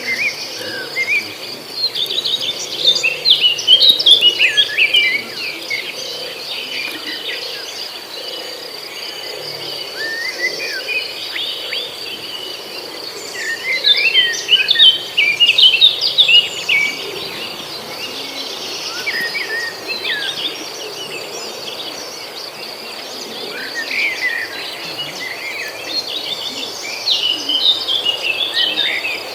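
A bird chirping in quick bouts of short, rapid notes, loudest in three stretches, over a steady, high-pitched insect drone that never stops.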